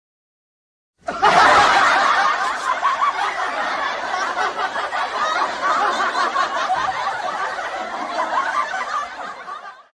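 Laughter and snickering, starting suddenly about a second in and cutting off sharply near the end.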